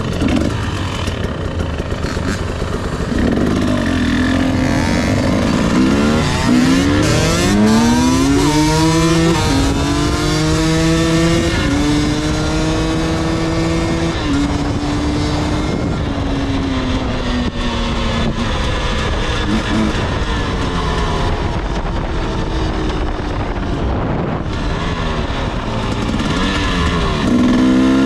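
Dirt bike engine under hard throttle: the pitch climbs steeply about seven seconds in, holds high for several seconds, then slowly drops off, and climbs again near the end, with a few knocks along the way.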